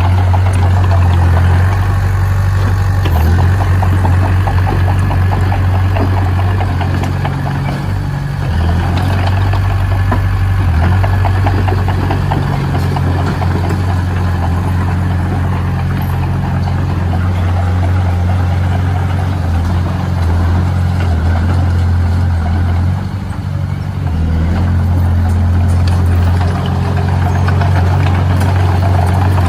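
Heavy machine's diesel engine running steadily at a low drone, dipping briefly in level near the end.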